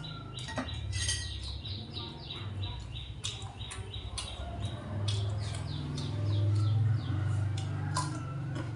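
Birds chirping rapidly in short, falling high chirps, several a second, over a steady low hum that grows louder in the middle.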